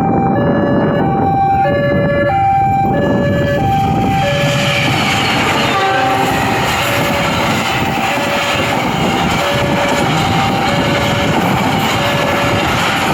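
Railway level-crossing warning alarm sounding in two alternating electronic tones, as a train comes up and passes from about four seconds in, its running and wheel noise on the rails swelling over the alarm.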